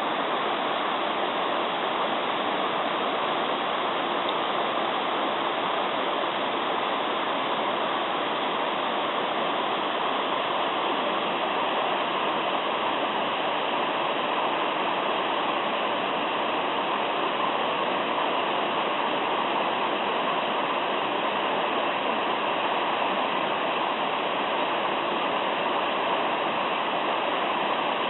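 Mountain stream murmuring: a steady, unchanging rush of running water.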